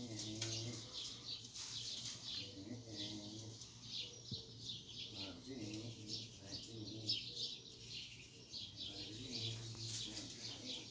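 Many small birds chirping and twittering in a dense, continuous run of short high calls, with fainter low sounds underneath.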